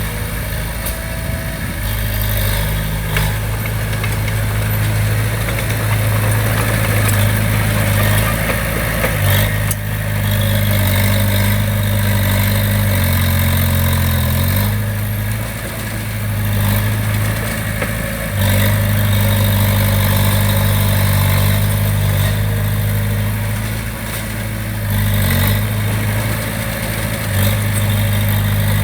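Diesel engine of heavy construction equipment running, its note shifting up and down several times as the load changes, with a few faint knocks.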